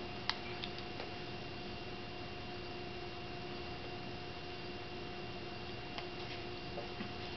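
Steady electrical hum of room tone, with a few faint short clicks.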